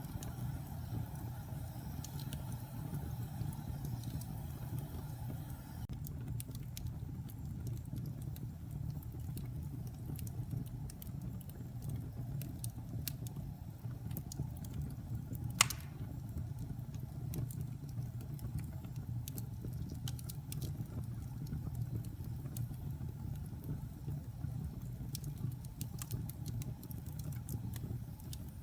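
Wood fire burning in a fireplace: a steady low rumble with scattered small crackles, and one sharp pop about halfway through.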